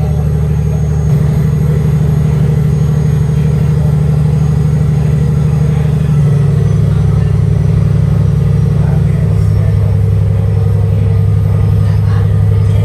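Heavy diesel engine running close by, with a steady low drone whose pitch shifts in steps about a second in and again around six seconds in.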